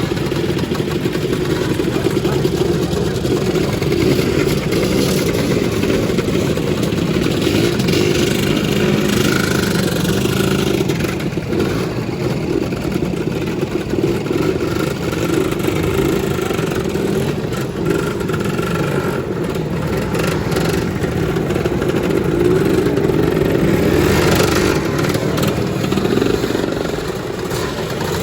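Two-stroke Lambretta scooter engines running and revving as scooters ride off, several together, making a continuous loud engine noise.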